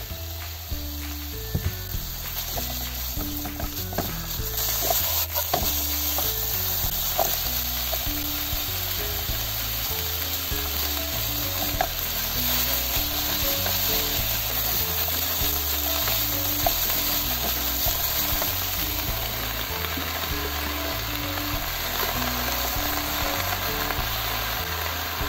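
Pork slices and napa cabbage sizzling in a hot frying pan, the hiss growing louder about four seconds in, with occasional clicks and scrapes of a wooden spatula stirring against the pan.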